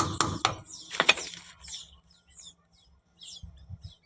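Ratchet wrench clicking a few times in quick succession, then a single knock about a second in. Birds chirp faintly after that.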